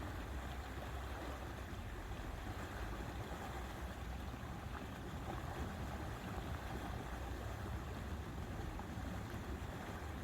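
Steady lakeside ambience: a low, unbroken rumble of wind with a faint wash of water.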